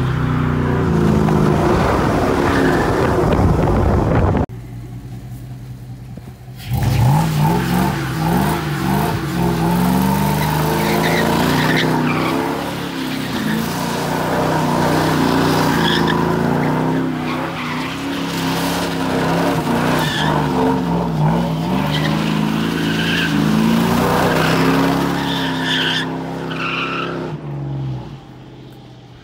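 A beater truck's engine revving hard while its tires spin and squeal in a burnout. It drops back about four and a half seconds in, then revs up again and holds with wavering pitch before dying down near the end.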